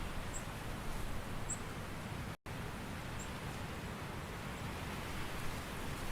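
Autumn forest ambience: a steady soft rustling hiss of wind and leaves, with a few faint, short, high bird chirps. The sound cuts out completely for a split second about two and a half seconds in.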